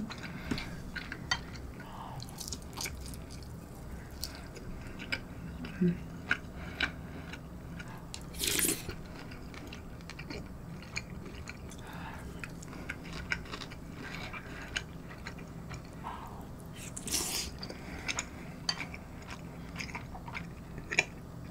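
Close-up wet chewing of soft, soupy food (kimchi pork-cutlet stew with rice mixed in), with small mouth clicks throughout and two longer, louder noisy sounds about 8 and 17 seconds in.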